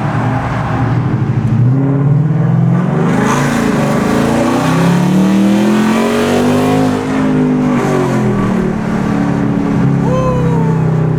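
2019 Ford Mustang GT's 5.0-litre V8 running through a Flowmaster Outlaw catback exhaust with an H-pipe: idling, then revved once, the pitch rising from about four seconds in, peaking around seven and dropping back to idle about a second later.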